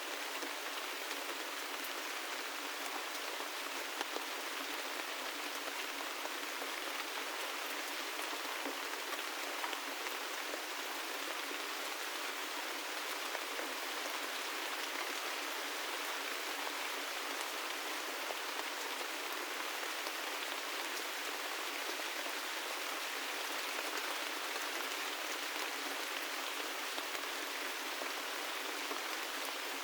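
Steady gentle rain: an even hiss with faint scattered drop ticks.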